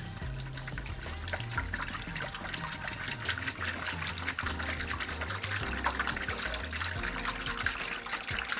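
Water running from a tap, over background music with a steady bass line.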